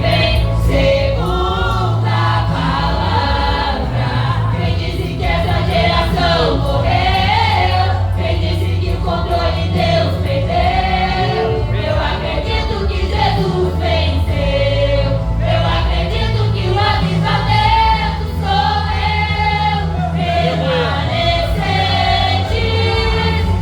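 Vocal group singing a Christian gospel song in Portuguese, several voices together over a steady instrumental accompaniment with a low bass.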